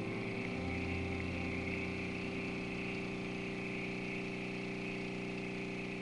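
Breville Barista Express espresso machine's pump humming steadily while a shot pours.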